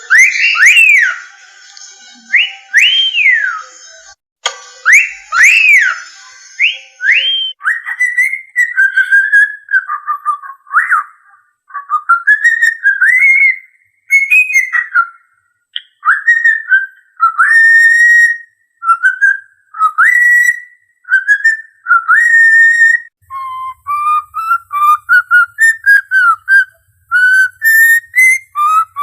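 A clear whistled melody. It opens with several swooping up-and-down glides, and from about eight seconds in it becomes a long run of short notes stepping up and down in pitch.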